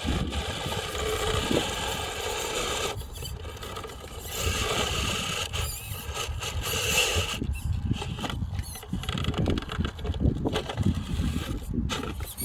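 Radio-controlled truck's electric motor and gears whining as it drives, the pitch rising and falling with the throttle, over a constant low rumble.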